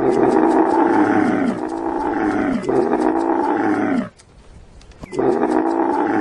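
Camel vocalisation sound effect: loud, drawn-out bellowing calls that fall in pitch, three in a row, a short pause, then a fourth.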